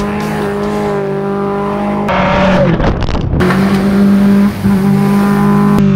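1999 Subaru Forester's flat-four engine running at high, steady revs, a droning note that shifts abruptly a few times.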